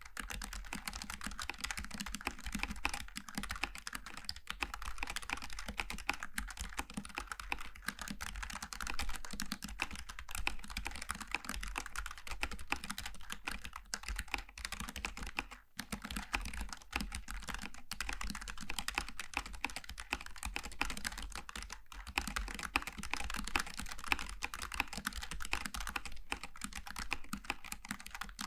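Continuous fast typing on a Logitech G915 TKL low-profile mechanical keyboard with tactile GL switches, a dense stream of key clacks with a brief pause about halfway through.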